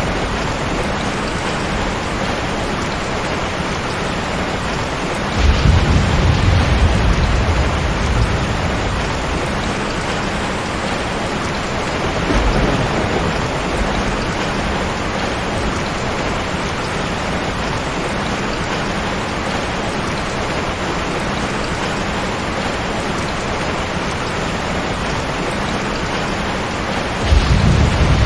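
Heavy rain falling steadily, with a roll of thunder about five seconds in, a fainter one around twelve seconds, and another starting near the end.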